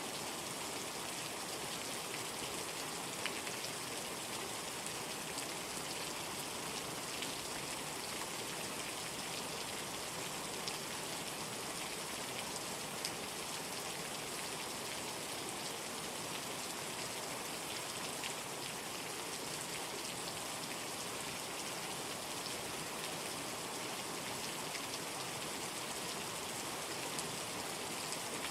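Steady heavy rain falling, with the sharp tick of a single drop here and there.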